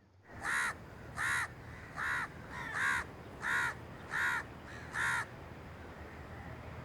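A crow cawing: seven short, harsh caws in a steady run, about one every three quarters of a second, then only a low hiss.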